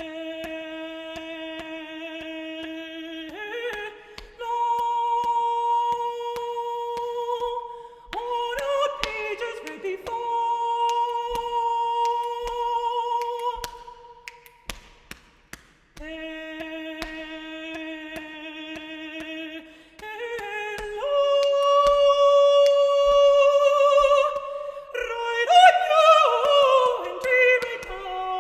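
Solo unaccompanied voice singing long wordless held notes that step upward in pitch, then a phrase of faster sliding notes near the end, with light body-percussion taps and clicks under it.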